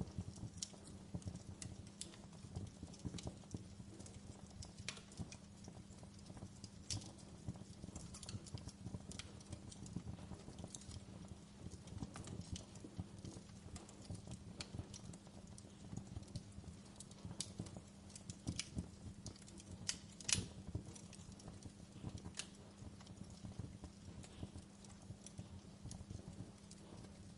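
Campfire burning, with irregular crackles and pops from the burning wood over a low rumble of flame. One louder pop about twenty seconds in.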